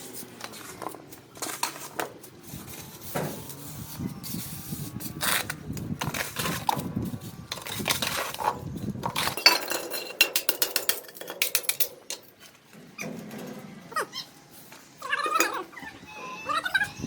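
Clatter and knocks, as of pots and utensils being handled, with a few short animal calls near the end.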